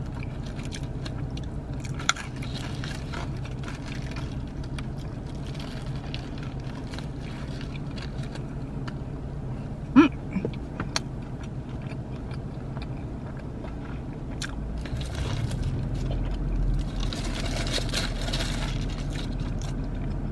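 Close-up chewing of a burger topped with crunchy corn nuts and tortilla strips: small irregular crunches and wet mouth clicks over a steady low hum. About halfway there is a short hummed "mm", and near the end a brief rustle.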